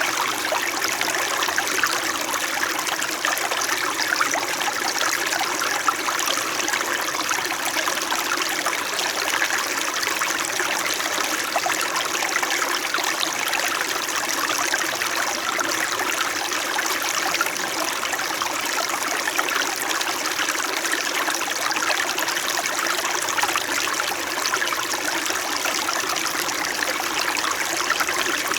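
Small mountain stream flowing steadily, an even babbling and trickling of water over stones.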